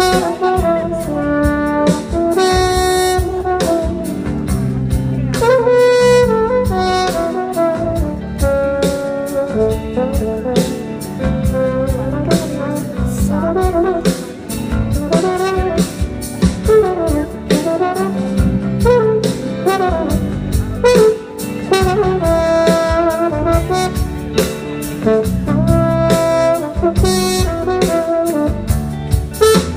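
Band music: an instrumental passage with horns carrying the melody over a steady drum beat and bass.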